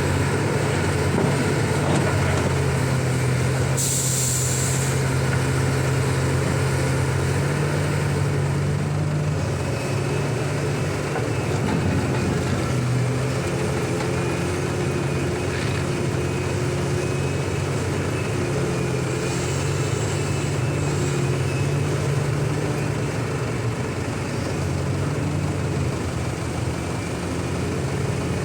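Liebherr 984 excavator's diesel engine running steadily under load while it loads trucks, its pitch shifting a little as it works. About four seconds in there is a short burst of air hiss.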